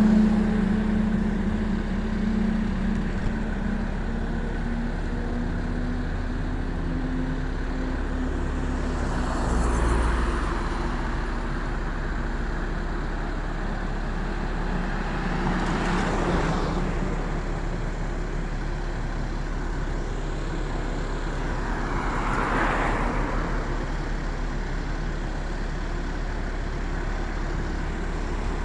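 Road traffic over a steady low rumble, with vehicles passing by three times, about ten, sixteen and twenty-two seconds in, each swelling and fading.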